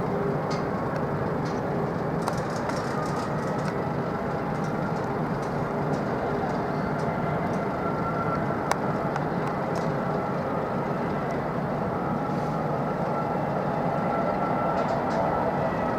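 Jet airliner engines running, a steady rumble with a faint high whine held throughout.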